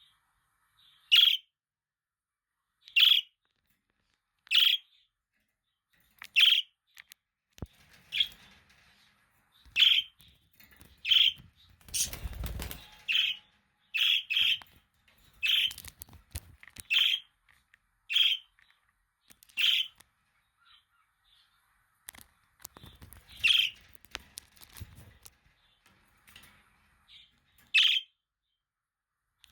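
Budgerigars giving short, sharp chirps one at a time, about one every one to two seconds. A brief rustling burst comes near the middle, with a fainter one later.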